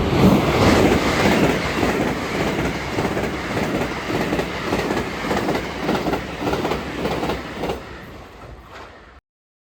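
A JR train running past, its wheels clacking rapidly and regularly over the rail joints; the sound dies away near the end and then cuts off abruptly.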